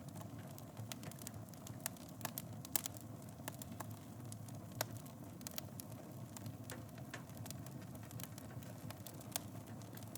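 Wood fire burning in a fireplace: a steady low rush with irregular sharp crackles and pops, a few louder snaps among them.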